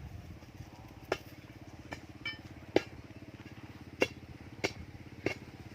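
Large raindrops hitting a metal roof one at a time, about eight sharp irregular taps, over a low steady hum.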